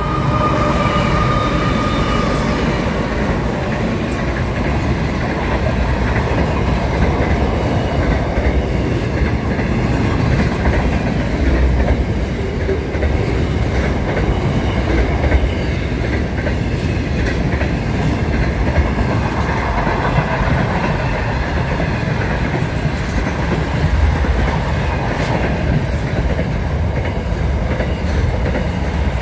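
Freight train passing close by: the diesel locomotive goes past in the first few seconds, then a long string of freight wagons follows, rumbling steadily with clickety-clack from the wheels on the rails and occasional sharp clanks.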